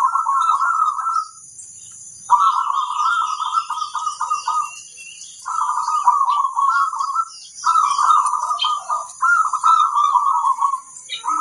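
Zebra dove (perkutut) cooing: a run of rapid, rolling coo phrases, each about a second and a half long, repeated after short pauses five times.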